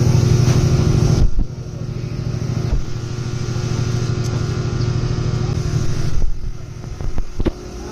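Small motorcycle engine running steadily. Its sound drops suddenly about a second and a half in, builds slowly again, and falls away near the end, with a few sharp clicks.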